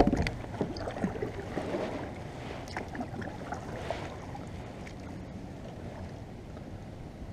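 Kayak on the water: a few knocks and splashes in the first few seconds, then a steady hiss of wind and water.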